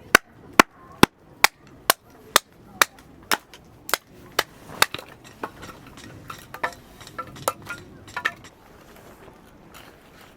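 A hammer striking a metal tent peg, about two sharp blows a second, the blows hardest at first and growing lighter and more irregular after about five seconds.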